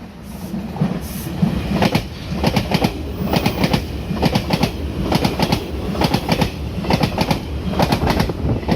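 Taroko Express tilting electric multiple unit passing through the station at speed, loud, its wheels clicking over the rails in a fast, even rhythm of paired clicks over a steady rumble.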